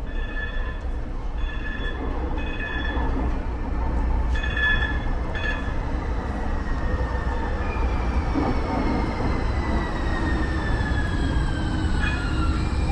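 Muni Metro light-rail car running in the subway tunnel with a steady low rumble. A series of short, high electronic beeps sounds in the first half, then a high whine glides steadily downward in pitch.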